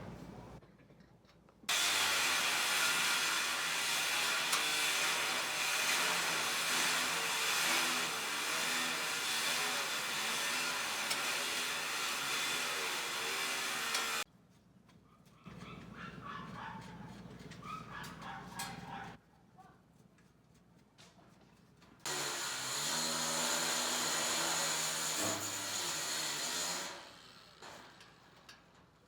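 Power-tool workshop noise in three separate runs, each starting and stopping abruptly: a long loud stretch, a shorter quieter one, then another loud one near the end.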